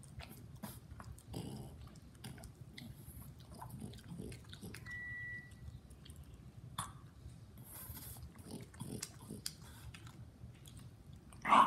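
A French Bulldog and a man chewing and biting into soft burritos, with many small irregular mouth clicks. A short steady high tone sounds about five seconds in, and a brief louder noise comes just before the end.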